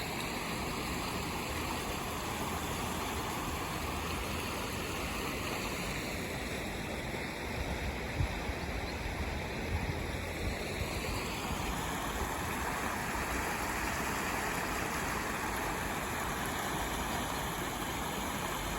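Steady rush of a flowing river, with a few light knocks near the middle.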